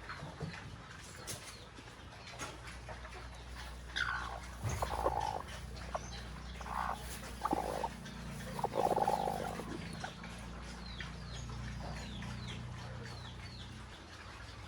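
Farm animals calling: a few short calls in the middle, then a quick run of high, falling chirps near the end, over a steady low hum.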